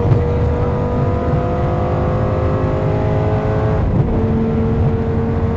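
Lamborghini Gallardo's V10 engine heard from inside the cabin, accelerating hard with the pitch climbing steadily. About four seconds in the pitch drops sharply at an upshift, then starts climbing again in the next gear.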